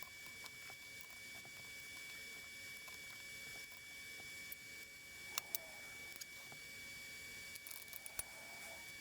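Faint steady hiss with a thin high steady tone, broken by a few light, sharp clicks, two about five and a half seconds in and a few more near the end.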